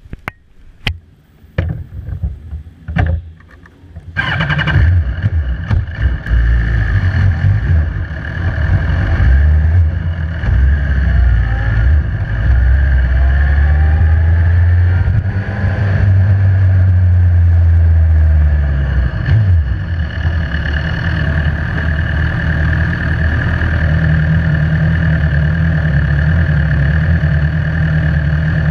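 A few sharp knocks and clicks, then about four seconds in a sport motorcycle's engine starts and runs loudly, rising and falling as the bike rolls slowly, and settling to a steady idle near the end.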